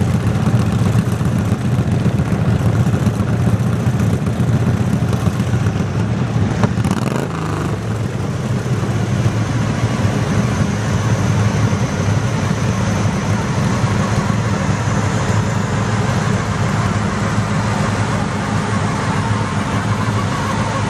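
Garden tractor engine running steadily and loud, a little quieter from about eight seconds in.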